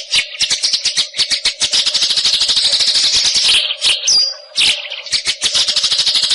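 White-rumped shama (murai hutan) singing a rapid, chattering song of sharp repeated notes in two long phrases, with a short high whistle between them a little past the middle.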